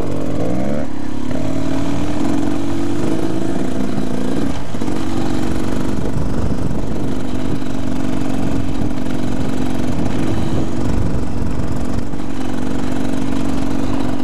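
Dirt bike engine running at a steady, low speed; its pitch rises a little in the first few seconds, then holds even.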